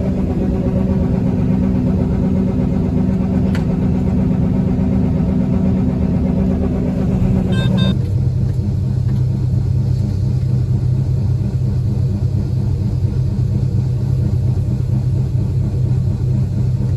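Combine harvester engine and machinery running at a steady drone. About eight seconds in, just after a brief electronic beeping, the sound shifts abruptly to a lower, deeper steady hum.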